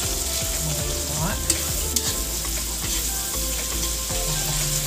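Chicken, onion and tomato sizzling in a nonstick wok while a metal spoon stirs and scrapes through them, cooking the tomatoes down soft. Two sharp clicks of the spoon against the pan come about one and a half and two seconds in.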